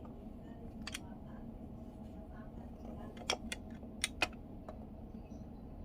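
Sharp clicks of small plastic parts of a car's multimedia control knob being handled: a single click, then two quick pairs of clicks, over a steady low background hum.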